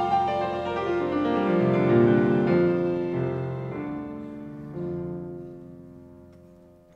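Live chamber ensemble music from a guzheng chamber concerto, with piano-like notes to the fore: a line of notes stepping down into the low register, then held notes that fade away almost to silence.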